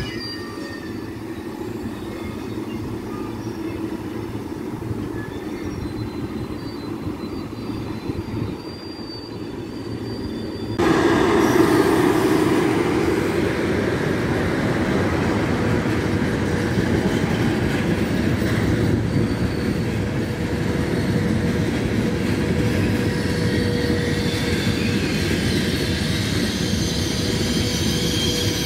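Passenger train coaches rolling along the tracks with a steady rumble of wheels on rail and faint high wheel squeal. About a third of the way through the sound jumps abruptly to a louder, steady train rumble that carries on.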